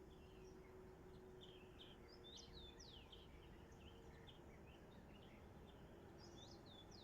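Faint, quiet birdsong: several small songbirds chirping with quick falling whistles over a low steady background hum.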